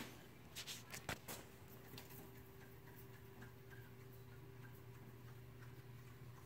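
A few faint clicks and knocks in the first second and a half, then a faint steady hum with a few light ticks.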